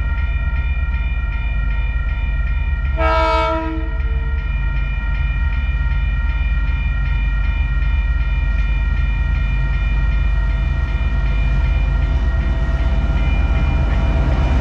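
A train's locomotive running steadily with a low rumble and a constant hum of tones. About three seconds in it gives one short toot, about a second long.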